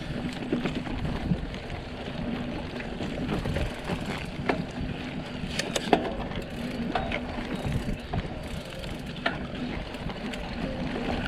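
Trek X-Caliber 8 mountain bike being ridden: steady tyre and drivetrain noise with scattered sharp clicks and knocks. The internally routed cable housings, now damped inside the frame, are not rattling.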